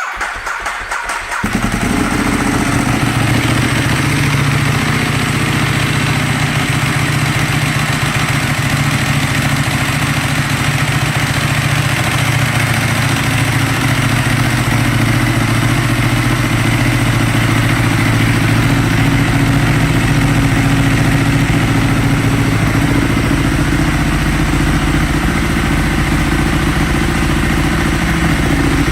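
2012 Ducati Streetfighter S 1098's L-twin engine, fitted with twin Termignoni exhausts, is cranked by its starter, catches after about a second and a half, and settles into a steady idle.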